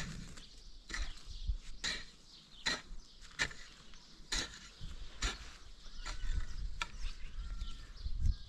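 Repeated sharp strikes of a hand tool on a hard material, a steady rhythm of about one blow a second.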